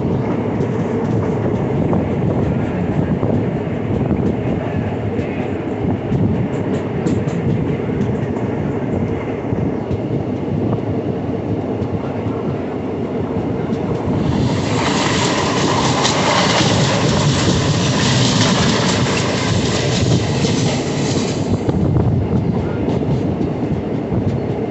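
Train running at speed, heard from inside a carriage: a steady low rumble of wheels on the track. About fifteen seconds in, a loud rushing hiss joins it for some seven seconds, then drops away.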